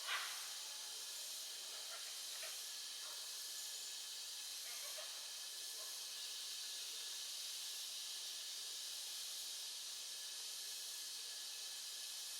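Steady high-pitched hiss of a tropical forest insect chorus, with one thin steady tone running through it. A short louder sound opens it, and a few faint short calls come in the first half.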